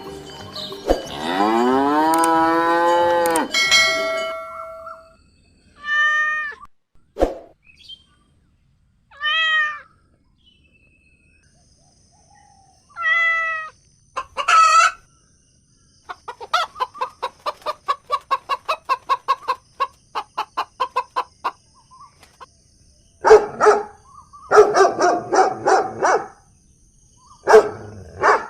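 A series of different animal calls, one after another with silent gaps: a long call that rises then falls near the start, several short calls, a run of rapid pulsed calls about four a second in the middle, and louder calls near the end.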